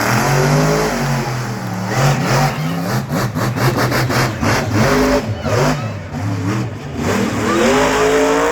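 Monster truck engine revving hard, its pitch swinging up and down, with a quick run of sharp cracks about three to four seconds in and a rising rev near the end.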